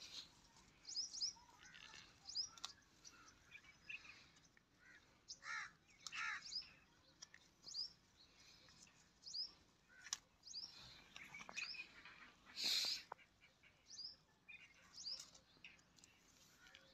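Small birds chirping over and over in short, sharp, repeated notes, faint overall, with a few light clicks and one brief louder call or rustle about three quarters of the way through.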